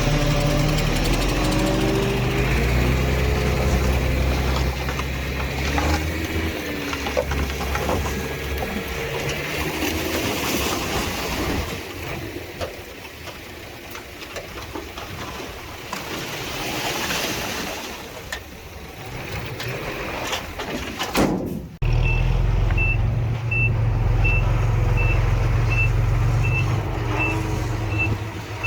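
Diesel engines of heavy earthmoving machinery running at a land-filling site. About 22 s in the sound changes suddenly, and a reversing alarm beeps about twice a second over a louder engine.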